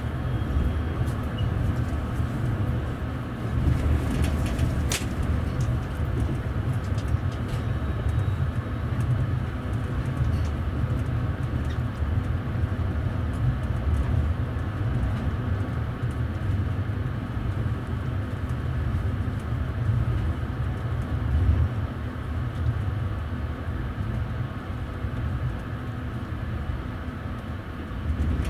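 Double-decker passenger carriage running on rails, heard from inside on the upper deck: a steady low rumble of the wheels with scattered light ticks, and one sharp click about five seconds in.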